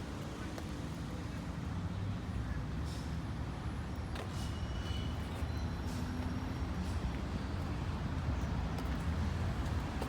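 A vehicle engine running at a steady idle, a low rumble with a few faint clicks over it.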